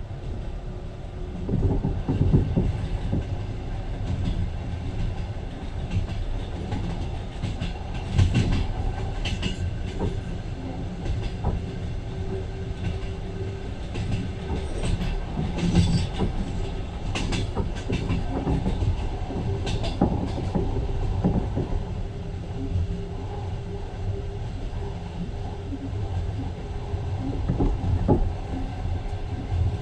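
Passenger train running along the track, heard from inside the carriage: a steady rumble with irregular knocks and clacks of the wheels over the rails.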